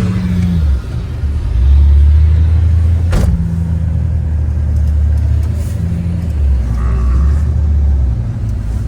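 4x4 vehicle driving on a snowy road, its engine a loud low drone that rises and falls as the throttle changes. A single sharp click comes about three seconds in.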